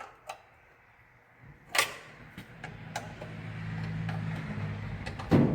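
A few sharp metallic clicks and knocks, the loudest near the end, over a steady low hum that comes in about a second and a half in and grows louder.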